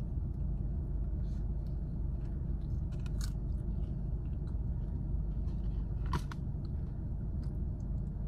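Someone biting and chewing crunchy toast, with a few sharp crunches about three and six seconds in, over a steady low car rumble.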